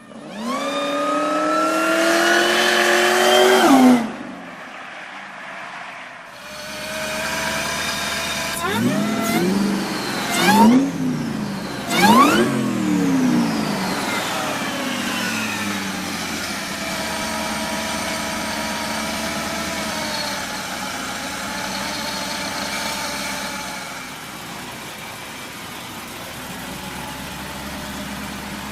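Muscle car engine revving, its pitch climbing steadily for about four seconds before cutting off suddenly. Then several sharp rises and falls in engine pitch follow, loudest around ten and twelve seconds in. After that it settles to a steady drone.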